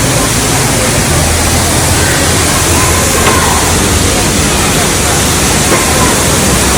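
Waterfall: a loud, steady rush of falling water, with faint voices under it.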